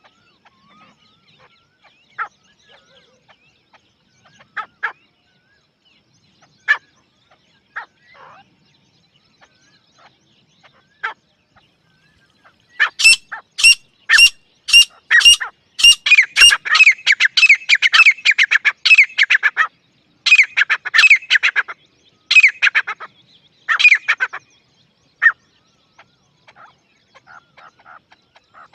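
Grey francolin (dakhni teetar) calling. Scattered single notes come first, then a run of sharp high calls about two a second, breaking into a fast, dense string of repeated calls, with a few last phrases near the end.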